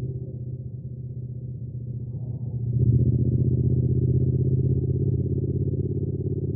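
Triumph Speed Twin's parallel-twin engine running while riding, with a low, steady note. It is somewhat quieter for the first two seconds, then grows louder about three seconds in as the throttle opens.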